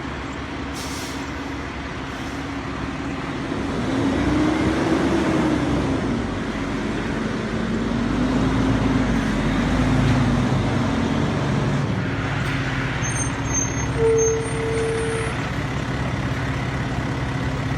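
Fire trucks' heavy engines running as the apparatus pulls out and goes by, getting louder about four seconds in, with a slow rising-and-falling low tone through the middle and a short steady tone about fourteen seconds in.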